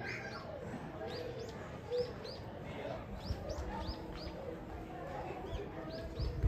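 Small birds chirping: a steady run of short, high notes, each falling in pitch, a couple to a few per second.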